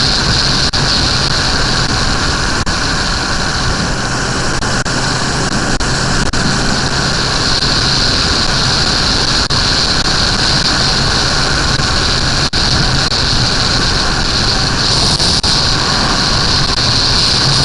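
Suzuki GSX-R 1100 motorcycle on the move: steady wind rush over the microphone with the engine's low hum underneath, unchanging throughout.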